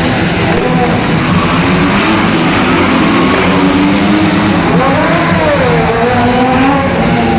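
Stunt car engines revving over loud guitar-driven show music.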